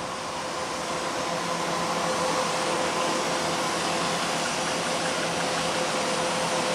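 Taiwan High Speed Rail 700T trainset approaching: a steady rushing noise with a faint steady hum, growing over the first two seconds and then holding steady.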